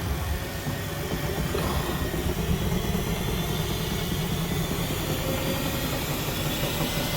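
Front-loading washing machine doing a short spin: the drum, belt and motor run with a steady low rumble, and a faint motor whine rises slightly in pitch as the drum speeds up.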